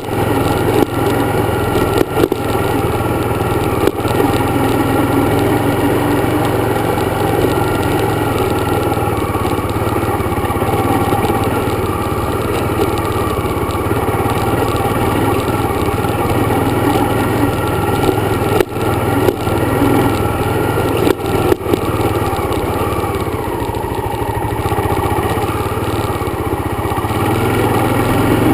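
Dirt bike engine running steadily under way, with wind and road noise over it. The sound dips briefly a few times, near the start and at around two-thirds of the way through.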